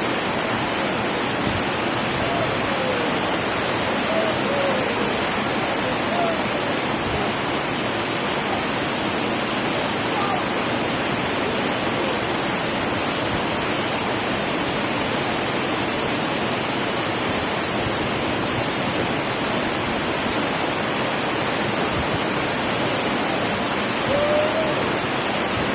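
Daranak Falls waterfall pouring: a steady, unbroken rush of falling water.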